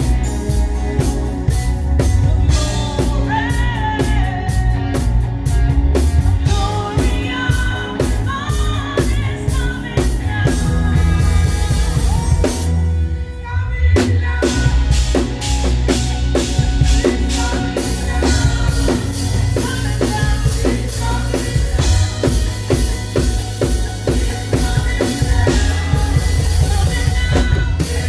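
Live praise music: a band with a drum kit keeping a steady beat and voices singing. The band drops out for a moment about halfway through, then comes back in.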